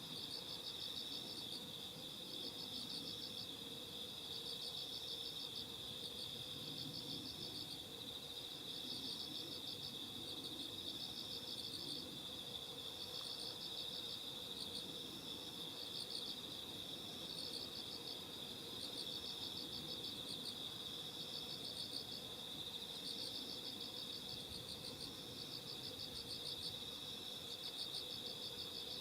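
Chorus of singing insects at night: one insect gives a continuous steady trill, while another repeats pulsed chirping phrases at a slightly higher pitch about every two seconds.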